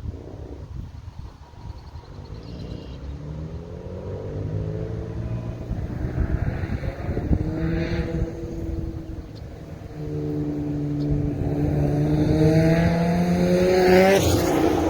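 Turbocharged 2.7 L V6 of a 2005 Hyundai Tiburon pulling under acceleration, its pitch rising twice: a shorter pull that eases off, then a longer climb that ends in a sudden rising hiss near the end.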